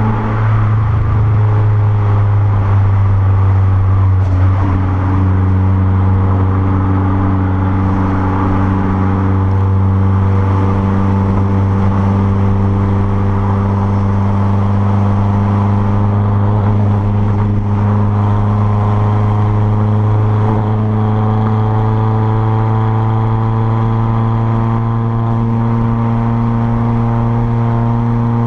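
Renault Clio 1.6 16v's K4M four-cylinder engine running at a steady speed through a straight-through 2-inch exhaust, heard from outside the car. Its pitch dips briefly about a second in and rises slightly near the end.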